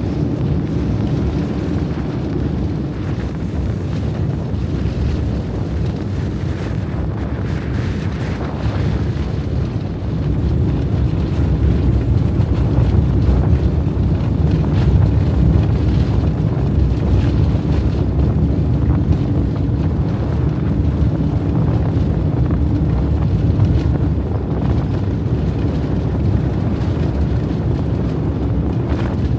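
Steady low rumble of a van on the move in blizzard winds, with wind buffeting and hissing over it; it grows a little louder about ten seconds in.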